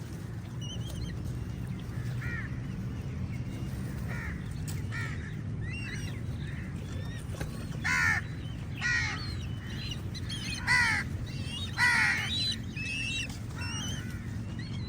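Several crows cawing, harsh short calls repeated and overlapping, the loudest few a little past halfway, over a steady low rumble.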